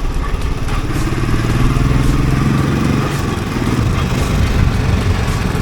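Royal Enfield Bullet 350's single-cylinder engine running under way, its pitch rising a little as it pulls and then easing off about halfway through, with wind and road noise over the helmet-mounted microphone.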